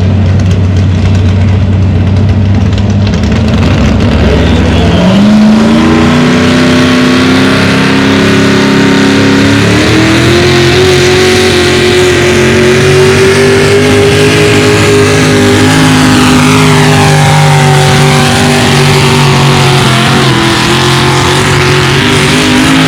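Big-block Chevy V8 of about 650 cubic inches in a pulling truck, run at full throttle hauling the sled. The engine note climbs about five seconds in, steps up again around ten seconds, and is held high to the end.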